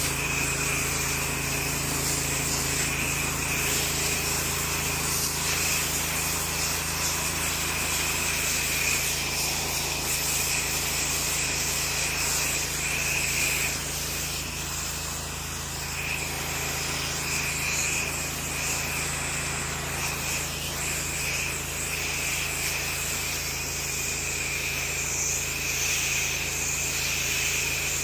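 Pressure-washing equipment running steadily, a constant engine or pump hum under the hiss of water spraying, easing off slightly midway.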